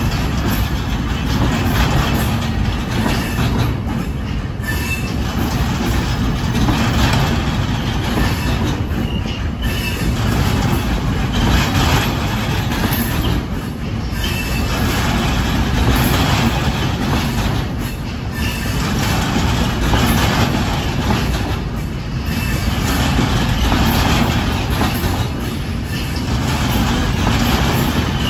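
Freight train of container wagons rolling past close by, its wheels rumbling and clattering on the rails. The sound swells and fades every few seconds as the wagons go by.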